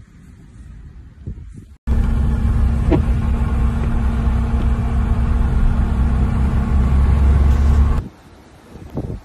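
Wind gusting on the microphone, then an abrupt cut about two seconds in to a loud, steady engine hum of unchanging pitch, a motor vehicle running at constant speed. It stops just as abruptly about eight seconds in, and the wind gusts return.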